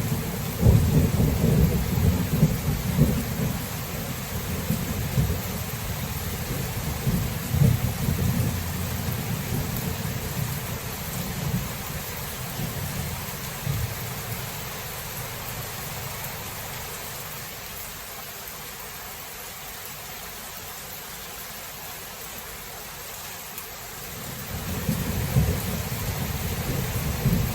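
Thunderstorm: steady heavy rain with low rolling thunder. The rumble is strong at first, dies away about halfway through, leaving only the rain, and rolls back in near the end.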